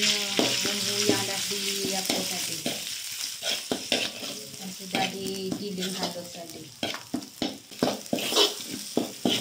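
Ground spice paste frying in hot oil in a metal wok, with a steady sizzle. A metal ladle stirs and scrapes it, knocking against the pan with sharp clicks and taps that come more often in the second half.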